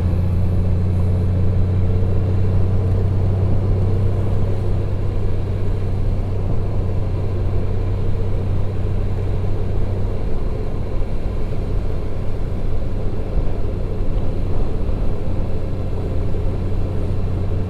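Motorcycle engine and wind noise at a steady cruising speed: an even low drone that holds without change.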